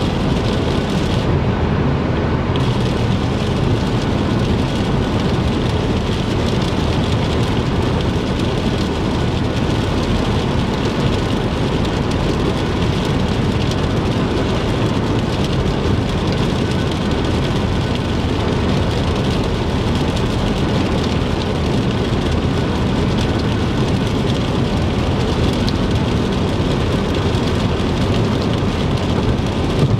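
A car driving on the interstate in heavy rain: a steady wash of rain on the car and tyres on the wet road over a low road drone. The high hiss drops away briefly about a second in.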